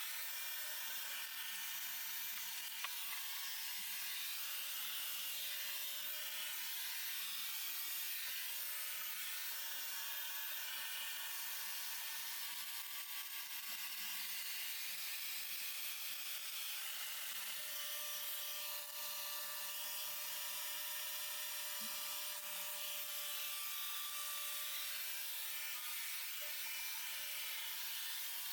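Roborock S7 robot vacuum running at maximum suction while its vibrating mop scrubs: a steady whir with a faint thin hum.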